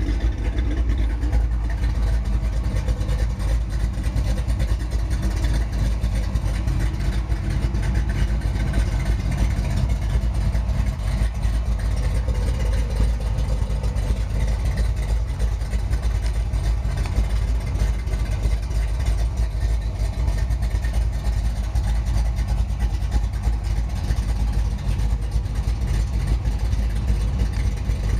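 Car engine idling steadily: a constant low rumble that does not rise or fall.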